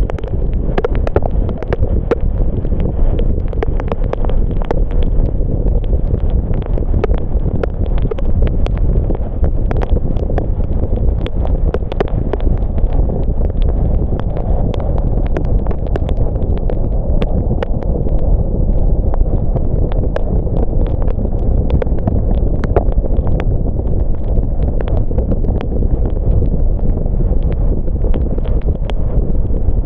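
Car driving in the rain: a steady heavy rumble of wind buffeting the microphone and road noise, with a faint steady hum. Over it, many sharp irregular ticks of raindrops tap close to the microphone.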